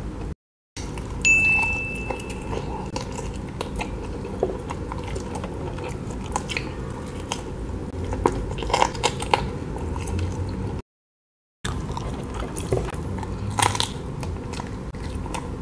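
Close-miked chewing and biting on chicken wing meat, with scattered small wet clicks from the mouth.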